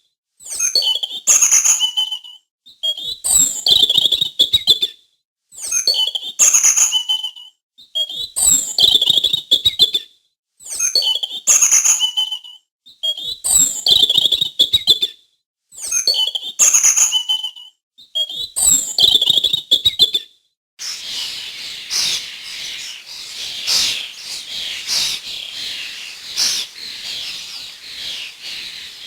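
A songbird's call phrase, high-pitched, repeated about eight times at even intervals with short silences between. About 21 seconds in it gives way to continuous, dense twittering of many birds.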